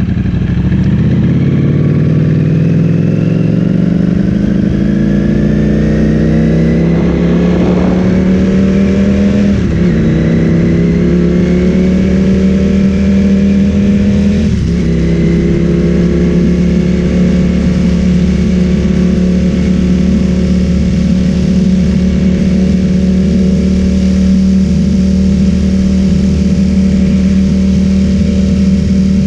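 Ducati Streetfighter V4S's V4 engine through an Akrapovic full-system exhaust, rising in pitch under acceleration with upshifts about ten and fifteen seconds in, then running at a steady pitch while cruising.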